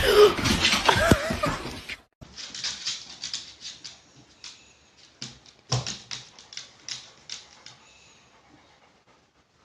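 A dog's short, wavering vocal sound, then after a cut a run of light clicks and taps that fade away.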